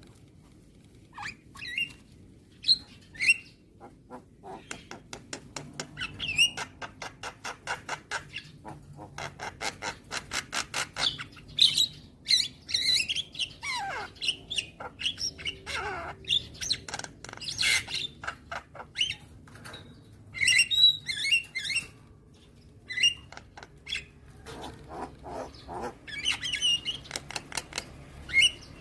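Javan myna (jalak kebo) calling: scattered chirps, then fast runs of clicks at about six a second, broken by harsh squawks, chirps and a few notes sliding downward.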